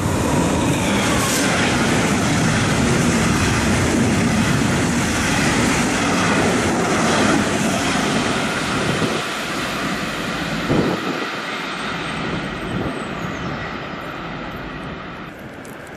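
A double-deck regional passenger train passing through at speed, a loud rolling rumble of wheels on rails that fades from about ten seconds in as the train runs away, with a single clack near eleven seconds.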